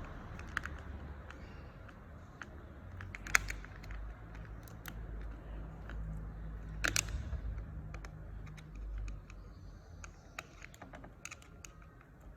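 Scattered light clicks and taps of small plastic and metal parts being handled and fitted while a motorcycle handlebar switch housing is put in place, with a sharper knock about three seconds in and another about seven seconds in.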